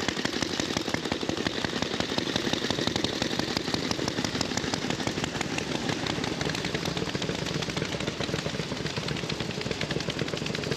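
Veteran (pre-1919) motorcycle engines running as the bikes are started and set off, their exhaust firing as a rapid, even train of sharp pops.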